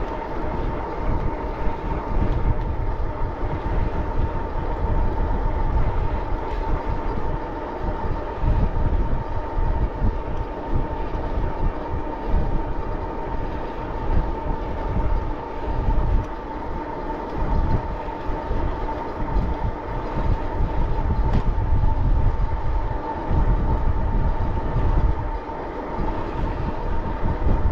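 Wind buffeting the microphone while riding a bicycle, an uneven gusty rumble, with a steady high-pitched hum running underneath.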